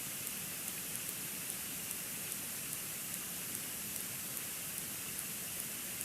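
Steady hiss from an outdoor nest-cam microphone in a snowstorm, with a faint high tick repeating evenly about two and a half times a second.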